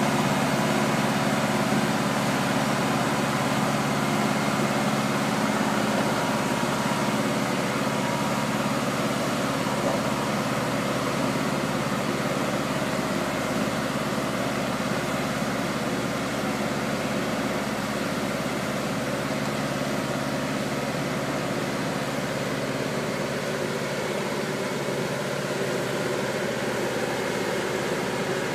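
Engine of a mobile boat gantry running steadily at a constant pitch. It eases off slightly in level towards the end.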